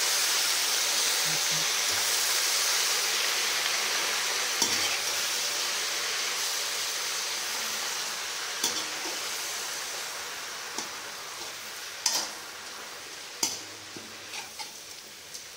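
Mint, coriander and curry leaves sizzling in sesame oil in a metal kadai as they are stir-fried with a perforated metal spoon. The spoon scrapes and clinks against the pan now and then. The sizzle slowly fades, and a few sharper clinks come in the second half.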